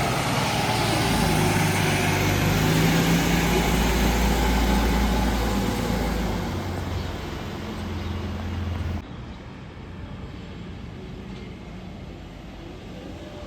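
Mercedes Econic refuse truck running close by, a loud, steady low engine note. The note eases about six seconds in, then drops away abruptly about nine seconds in to a quieter rumble.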